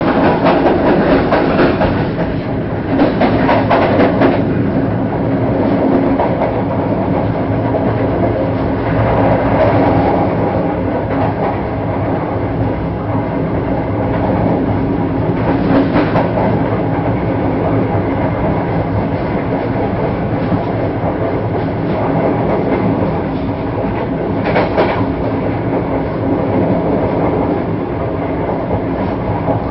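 Passenger train coach running at speed, heard from its doorway: a steady rumble and rattle of wheels on the track, with louder clatters now and then.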